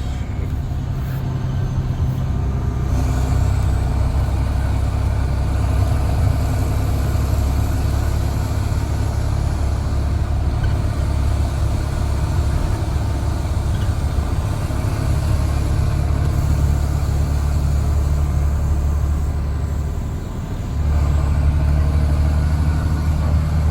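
Straight-piped Cummins C8.3 diesel in a school bus, running steadily under way with a deep, throaty exhaust drone. About 20 seconds in the drone dips briefly, then comes back louder.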